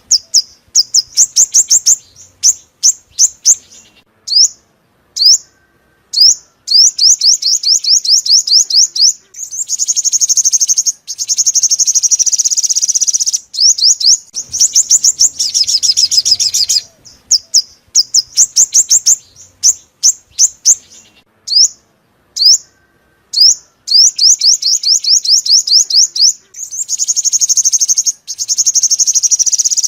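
Sunbird song, sold as five-colour sunbird lure song: loud, rapid runs of sharp, high chips, broken by short pauses. Several runs merge into dense, buzzy trills lasting a few seconds.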